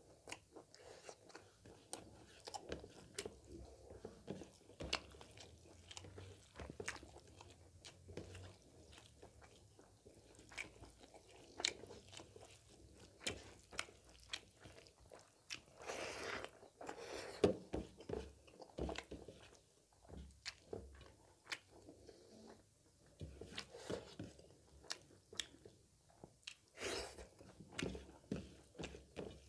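Close-up eating sounds of a man chewing rice and pork gravy eaten by hand: many short wet smacks and clicks of the mouth, with a few louder stretches about halfway through and near the end.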